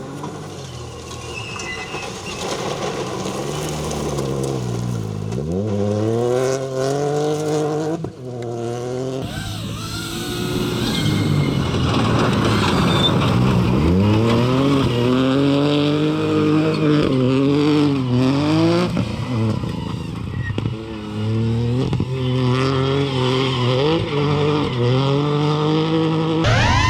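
Ford Fiesta Rally4's 1.0-litre three-cylinder turbo engine revving hard on a rally stage. The revs climb through the gears, drop sharply when the car lifts or brakes, and climb again, over and over.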